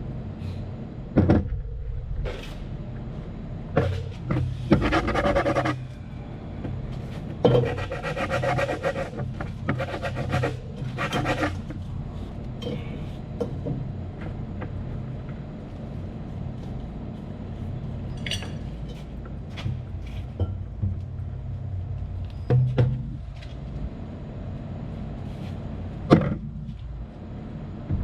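Metal tools knocking and clanking on machinery, with two stretches of fast rattling or scraping a few seconds in, over a steady low machinery hum.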